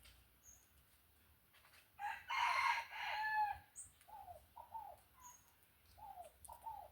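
A rooster crowing once, a call of about a second and a half starting about two seconds in, followed by a string of short falling bird calls.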